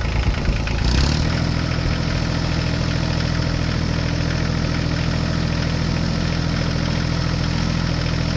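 Tractor engine running steadily. Its sound changes about a second in and settles into an even, unbroken note.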